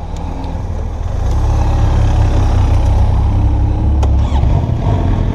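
Motorcycle pulling away: engine and riding noise build up over the first two seconds, then hold steady.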